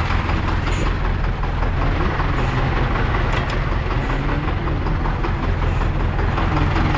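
Diesel engine of farm harvest machinery running steadily with a constant low hum.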